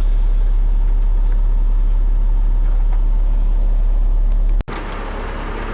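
Heavy truck's diesel engine running with a steady low drone. About four and a half seconds in it cuts off abruptly, and a quieter, hissier engine sound takes over.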